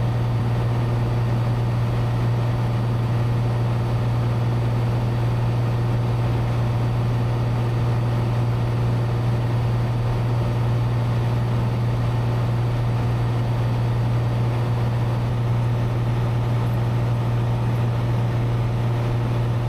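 Cessna 182's six-cylinder piston engine and propeller droning steadily in cruise, heard inside the cabin as an unchanging low hum with a faint thin high tone that stops about three quarters of the way through.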